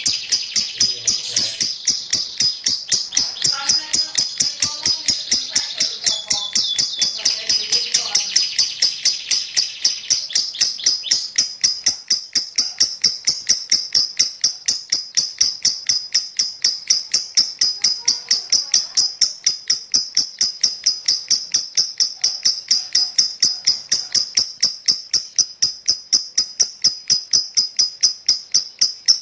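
Lovebird chattering in a long unbroken 'ngekek' run: sharp high chirps repeated evenly about four times a second, with a denser layer of chirping underneath during the first ten seconds.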